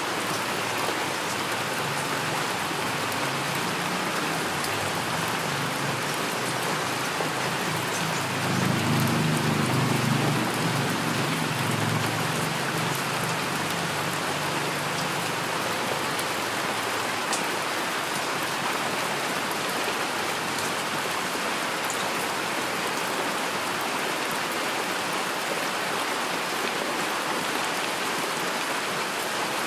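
Steady heavy rainfall, an even hiss of many drops. About eight seconds in, a low rumble of distant thunder swells and fades away over the next several seconds.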